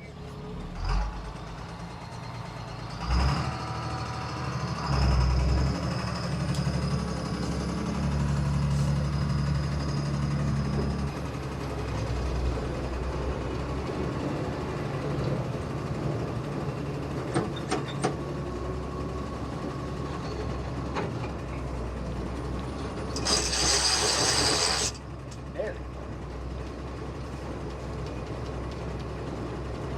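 Heavy truck engine and drivetrain running with a steady low drone during a tow-start attempt on a military deuce-and-a-half pulled along in third gear. Its engine does not catch. A loud hiss of air lasts about two seconds near the end.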